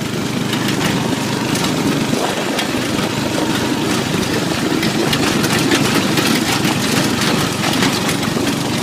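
Off-road go-kart's small engine running steadily as the kart drives along a dirt trail, with frequent clicks and rattles over it.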